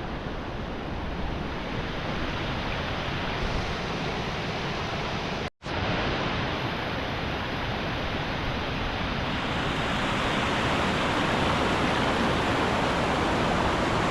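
Steady rush of a fast mountain river running over rapids, with a split-second drop to silence about five and a half seconds in.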